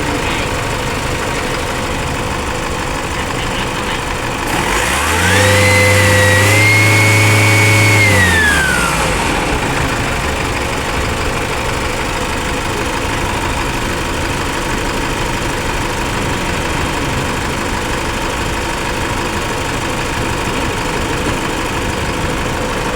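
Isuzu Mu-X turbodiesel engine idling, then revved once for about four seconds starting about five seconds in, with a high whistle that rises with the revs and falls away as it drops back to idle. This is the loud turbo noise whose cause is being hunted.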